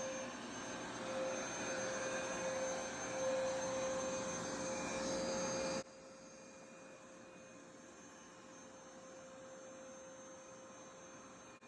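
Hoover SmartWash+ carpet shampooer running, a steady motor hum with a whine. About six seconds in it drops suddenly to a much quieter level and keeps running.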